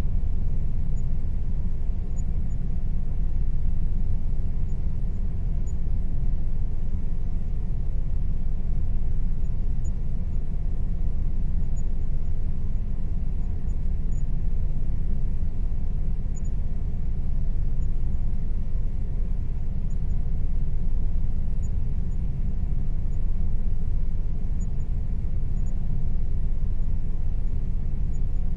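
Air conditioner running steadily: a constant low hum with a faint steady tone above it.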